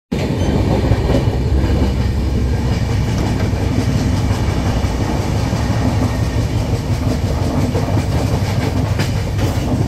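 Express passenger train running at speed, heard at an open coach door: a steady loud rumble of wheels on the rails with faint clicks now and then.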